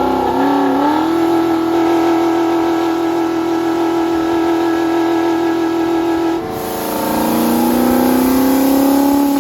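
Car engine held at steady high revs, settling onto a constant note about a second in. About six and a half seconds in the note drops abruptly to a lower pitch and then slowly climbs.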